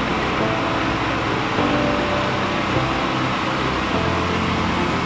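Diesel truck engine running steadily, a continuous low rumble over a wide hiss of background noise.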